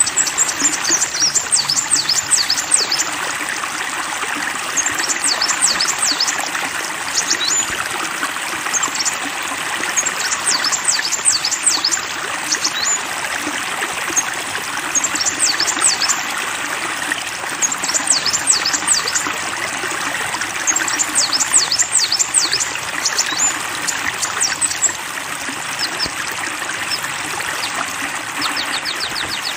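Flowing stream water trickling steadily, under a songbird singing in repeated bursts of rapid, high, downward-sweeping chirps every few seconds.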